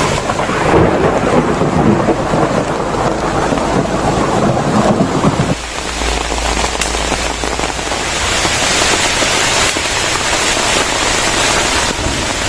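Heavy tropical rainstorm: a dense hiss of heavy rain with wind, low rumbling buffeting in the first half, which changes abruptly about halfway in to a brighter, steady downpour hiss.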